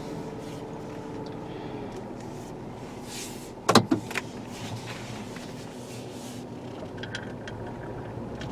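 A 2016 Ford Explorer's 3.7L V6 running steadily, heard from inside the cabin. About four seconds in there is a short cluster of sharp clunks.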